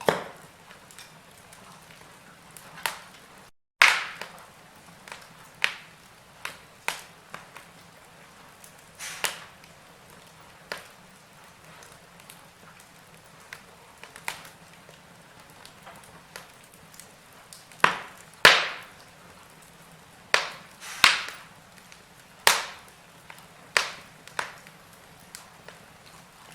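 Wood fire in a fireplace crackling: sharp pops and snaps at irregular intervals over a faint steady hiss, with louder pops clustering in the second half. Just before the four-second mark the sound cuts out completely for a split second.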